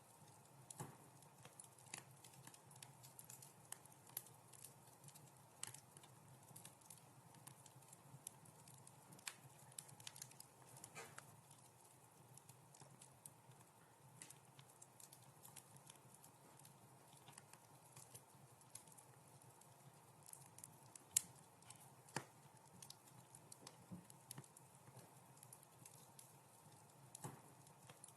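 Wood fire crackling softly in a fireplace: scattered pops and snaps over a faint hiss, with one sharper pop about three-quarters of the way through.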